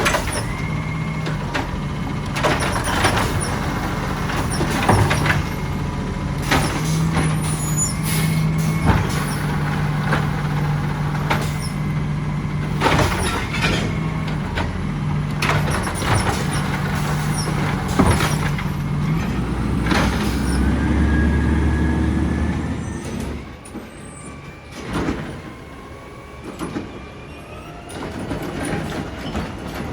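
Side-loader garbage truck at work: its diesel engine runs steadily while sharp bangs and clatter come again and again from the collection. A deeper engine note swells near three quarters of the way through, then the sound drops off, leaving scattered knocks.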